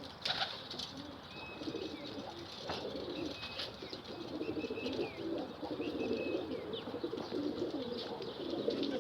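Several domestic pigeons cooing softly and continuously, with a few short high chirps and an occasional click.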